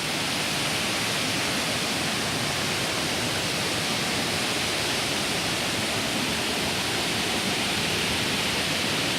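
Waterfall water rushing, a steady, even noise with no breaks.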